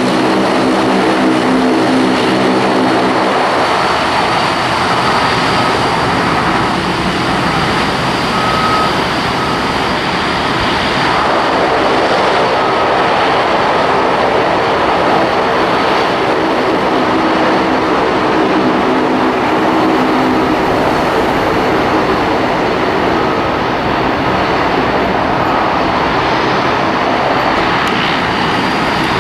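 Airliner engines running: a loud, steady rush of engine noise with a constant high whine. A low droning hum is strong for the first few seconds, fades, and returns in the middle.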